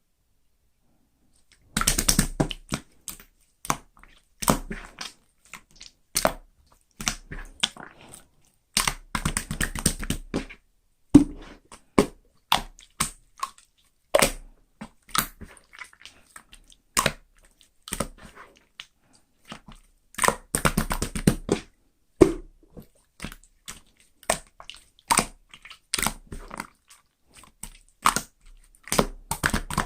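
Wet chewing and crunching in irregular bursts of sharp clicks, starting about two seconds in after a moment of quiet.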